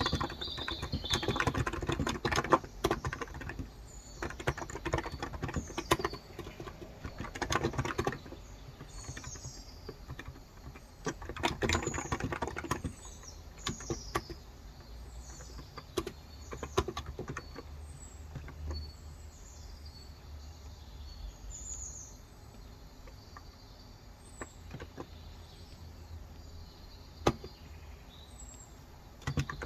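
Typing on a Cox Endeavor 35 g electro-capacitive tenkeyless keyboard, in spurts of quick key strokes with pauses between, sparser in the second half. Birds chirp throughout with short, high, falling notes repeated every second or so.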